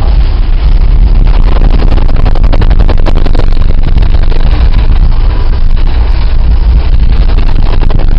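Loud, steady low rumble and rushing noise of rough sea and wind aboard a cargo ship, with a rapid crackling stretch from about one and a half to three and a half seconds in.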